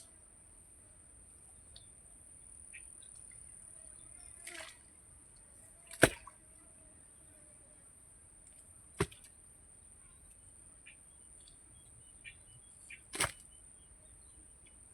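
Four sharp thuds a few seconds apart, the second the loudest, from tools striking during work on a fish-pond embankment. A steady high drone of insects runs underneath.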